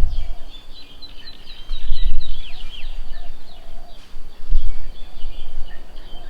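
Several birds chirping and calling, with a quick run of short, high, descending notes about two seconds in. Low rumbles at the start and again about two and four and a half seconds in are the loudest sounds.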